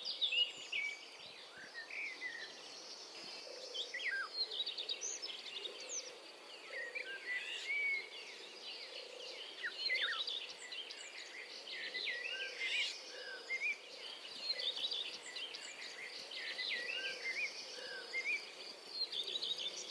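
Many small birds chirping and calling in dense trees: lots of short, overlapping rising and falling notes, with a faint steady high drone underneath.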